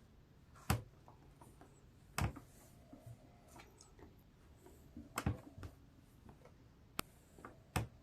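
Handling while sewing: a few scattered light clicks and knocks, about five over eight seconds, with quiet between them.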